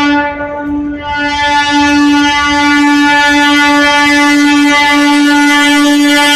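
An electric MEMU train's horn sounding one long, unbroken blast.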